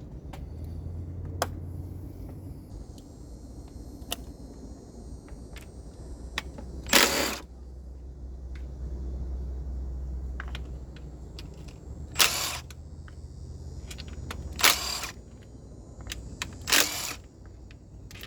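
Hand work in an engine bay while disconnecting hoses and a bolt to free the intake: scattered sharp clicks and knocks of tools and parts, with four short, loud rasping bursts spread through, over a steady low hum.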